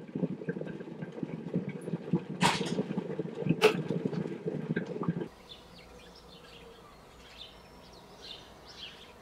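A low, crackling rumble with two sharp clicks near the middle cuts off about five seconds in, leaving faint bird chirps over a quiet background.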